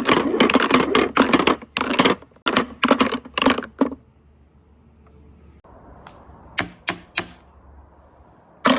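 Marbles clattering rapidly along a marble run track for about four seconds, then a few separate clicks and one sharp clack near the end.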